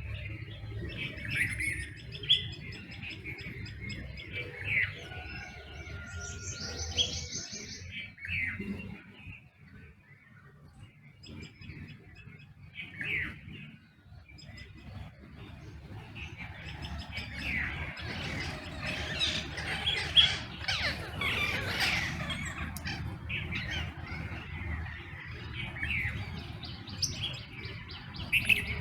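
Several songbirds chirping and calling in a dawn chorus, over a steady low background rumble. The calls thin out near the middle, then build into a dense run of chirps in the second half.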